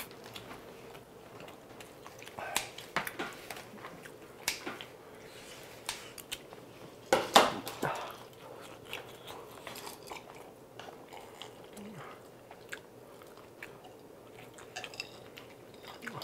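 Close lapel-mic mouth sounds of eating: chewing and biting on spicy tteokbokki rice cakes with melted cheese, with scattered short clicks. A louder cluster of eating sounds comes about seven seconds in.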